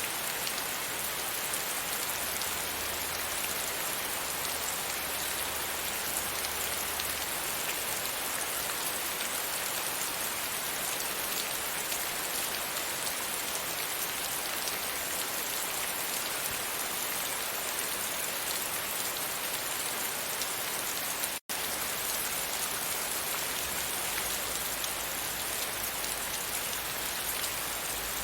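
Steady rain falling against a window: an even, dense hiss of drops with no let-up. The sound cuts out completely for a split second about 21 seconds in.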